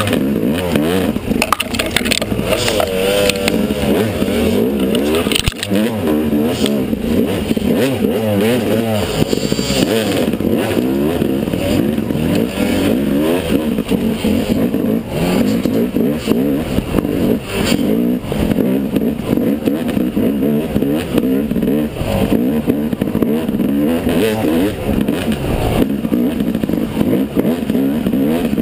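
Yamaha 250 dirt bike engine running under way, its revs rising and falling continually as the rider works the throttle.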